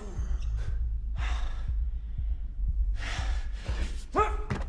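Heavy, ragged breathing: several loud gasping breaths, then a short grunt near the end, over a steady low rumble.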